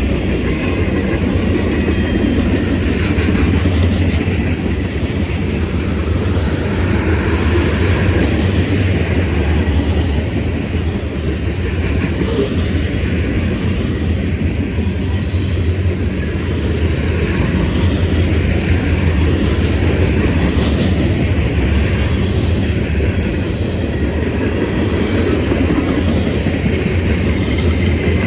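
Freight train rolling past, its cars' steel wheels on the rails making a steady rumble and clatter.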